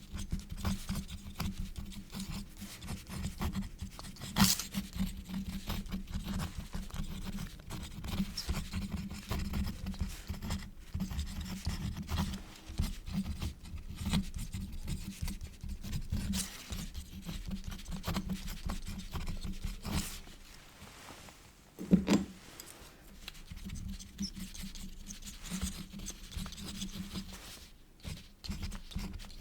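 Quill nib scratching across paper in a continuous run of small writing strokes. There is a sharp tap about four seconds in, and a louder dull knock after a brief pause near three-quarters of the way through.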